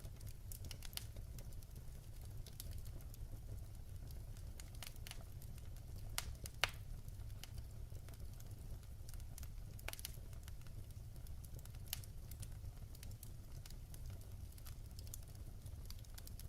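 Wood fire burning in a fireplace: a steady low rumble with scattered sharp crackles and pops, the loudest pop about six and a half seconds in.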